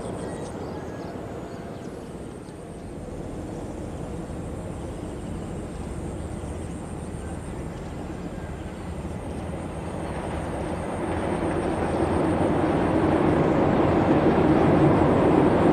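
Passenger train running with a steady rumble that grows louder over the last few seconds.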